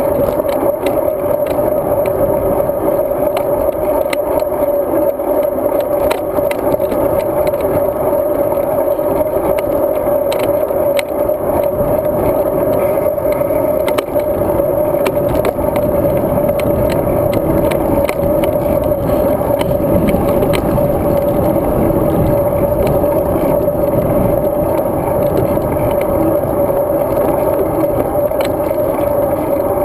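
Road bike being ridden, heard through a camera mounted on it. Steady tyre and wind noise with a constant hum, and frequent small rattles and clicks as it goes over bumps.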